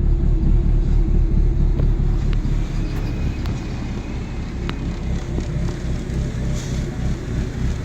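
2010 Mini Cooper's four-cylinder engine running steadily, a continuous low rumble with a few faint ticks, heard during a salvage-yard test of the used engine.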